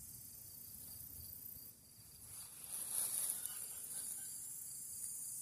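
Insects, such as crickets, chirring steadily and high-pitched in the background, with a brief louder rustle about three seconds in.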